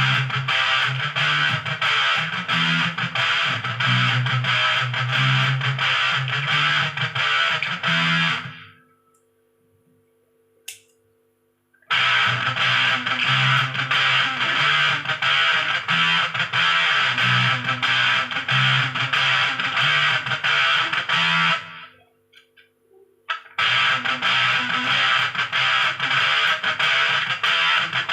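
Electric guitar played through an MXR Sub Machine fuzz pedal, a heavily distorted riff with strong low notes. The playing stops twice for a few seconds, with one small click in the first pause.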